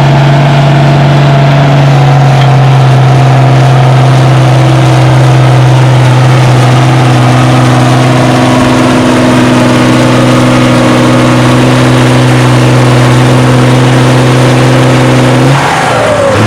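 International Harvester 1066 tractor's turbocharged six-cylinder diesel running hard under load while pulling a weight-transfer sled, its note loud and holding a steady pitch. About a second before the end it cuts back sharply as the pull stops.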